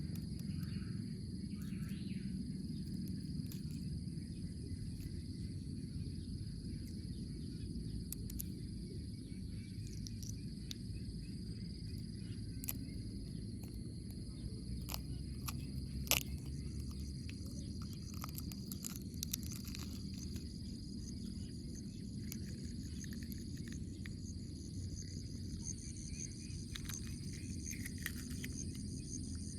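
Steady insect chirring, high and continuous, over a low background rumble, with scattered faint clicks and one sharper click about 16 seconds in.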